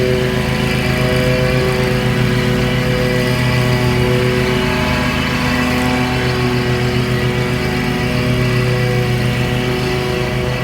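Lawn mower engine running steadily while mowing.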